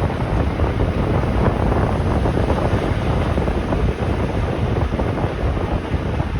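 Wind buffeting the microphone over the steady running rumble of a Rhätische Bahn regional train in motion.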